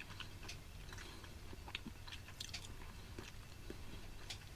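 Close-up chewing of a small bite of processed MRE grilled chicken, with scattered soft, moist clicks of the mouth and jaw over a low steady hum.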